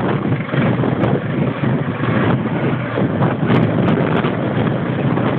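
Steady rumble of display helicopters flying overhead, mixed with wind buffeting the microphone.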